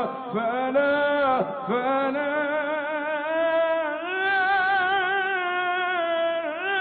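A solo male voice singing an Egyptian Islamic ibtihal (devotional chant), unaccompanied. He stretches one word into long, ornamented melismatic phrases. From about halfway through he holds a higher note with a fast, even vibrato.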